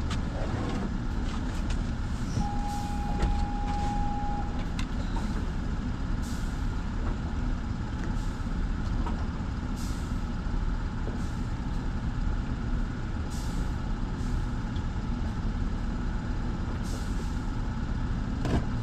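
Steady low mechanical rumble of running machinery, like an engine running. A single steady high tone sounds for about two seconds, starting roughly two and a half seconds in, and there are a few scattered clicks.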